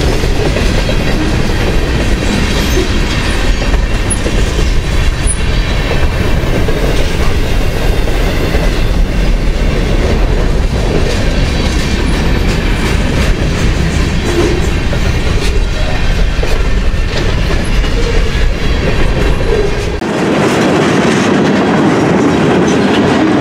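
Freight cars of a long mixed manifest train rolling past close by, steel wheels clattering steadily over the rail joints with a continuous heavy rumble. About 20 seconds in the sound changes abruptly, losing its deep rumble and turning brighter.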